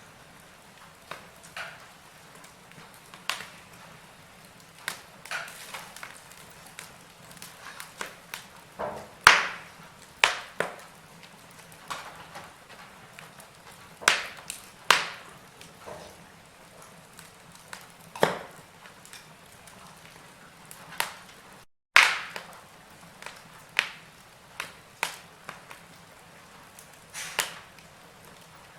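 Wood fire in a fireplace crackling, with irregular sharp pops and snaps, a few of them much louder than the rest. The sound cuts out for a split second a little past the middle.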